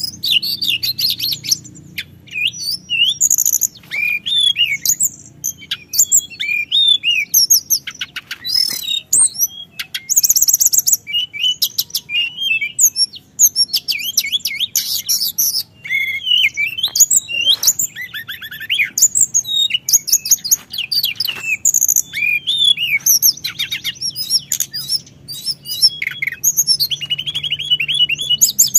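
A teledekan gunung singing on and on: a fast, unbroken stream of varied high chirps, rapid trills and sweeping whistles with only brief pauses, over a faint low hum.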